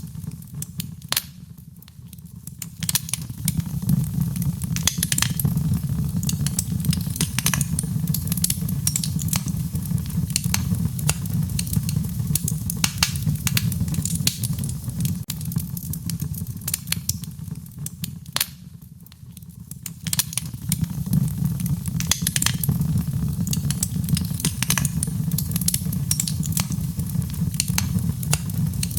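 Wood fire burning: a steady low rumble of flames with frequent sharp crackles and pops. The fire quietens briefly twice, near the start and again about two-thirds of the way through.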